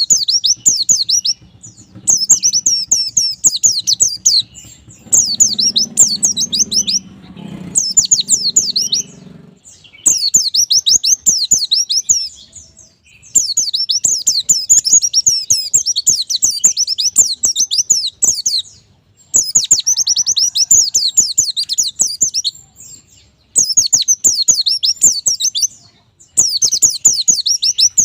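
White-eye (pleci) singing: fast, high twittering song in repeated bursts lasting one to several seconds, with short pauses between.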